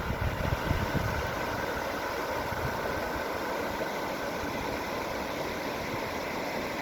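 Wind on the microphone outdoors: a steady hiss with low rumbling gusts in the first second or so, then evening out.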